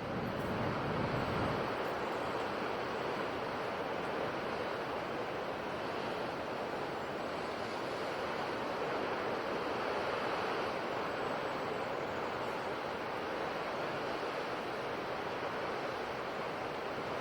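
Sea waves washing on a shore: a steady wash of surf noise that swells only gently.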